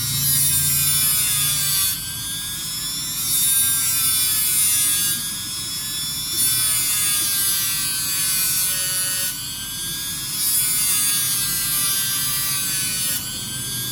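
A small motor running with a high buzz, its pitch wavering slightly and its level stepping up and down every second or two.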